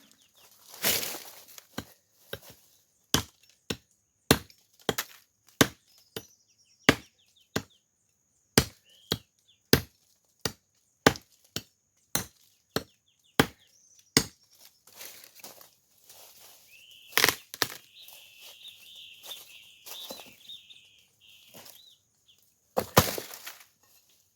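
Firewood being chopped: a long run of sharp blows on wood, about one or two a second, then a few louder blows near the end.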